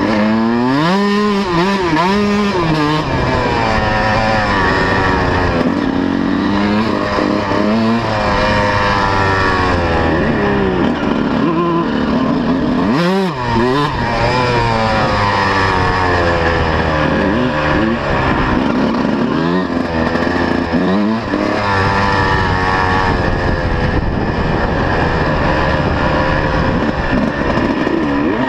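125cc two-stroke motocross bike engine running hard, its revs climbing and dropping over and over as the throttle is opened and closed, with a brief drop off the throttle about halfway through.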